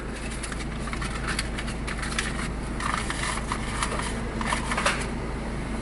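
Car idling with a steady low hum, overlaid by scattered small clicks and rustles.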